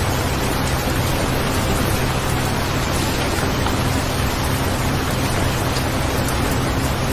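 Steady rain: an even, unbroken hiss with a deep low rumble underneath.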